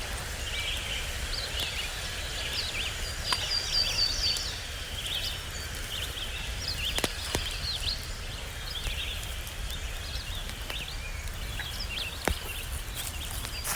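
Several small birds chirping and trilling, their calls overlapping, with a few sharp clicks.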